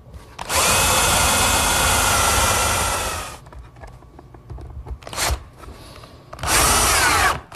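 Electric drill boring screw holes in wood: one run of about three seconds, a brief burst, then another run of about a second with the motor pitch sliding up and down.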